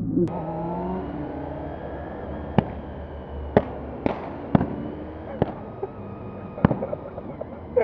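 1995 Honda RVF400's V4 engine revving up just after the start and then running steadily with a slowly easing pitch. About six sharp pops come at irregular intervals over it.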